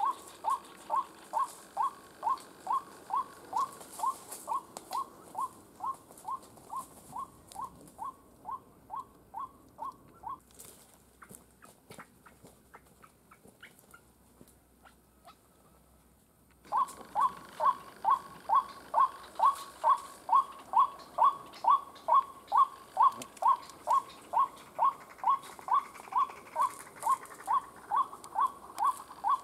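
White-breasted waterhen calls: a fast series of short falling notes, about two and a half a second. The series fades and stops about ten seconds in, and after a few seconds of quiet with faint clicks it starts again abruptly and louder.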